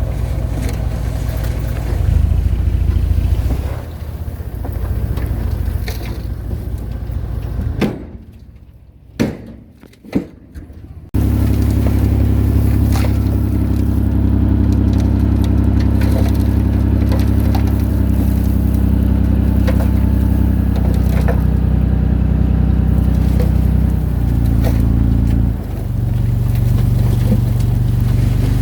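Diesel engine of heavy earthmoving machinery running under load, with scattered metal clanks and knocks. About eight seconds in the sound drops away for roughly three seconds, broken by a few sharp knocks. It then comes back steady and shifts pitch slightly near the end.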